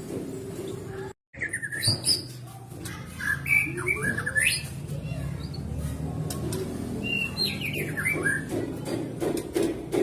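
White-rumped shama (murai batu) singing in short phrases of clear whistles and chirps that glide up and down. The sound cuts out completely for a moment about a second in.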